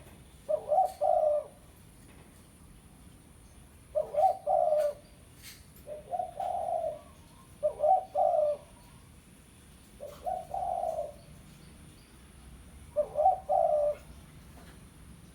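Spotted dove (tekukur) cooing: six short phrases of low, rolling coos, one every two to three seconds, the call used as a lure for wild doves.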